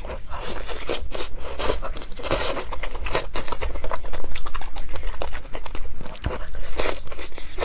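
A person chewing and biting saucy, chili-coated braised meat on the bone, with irregular crunches and clicks of the mouth.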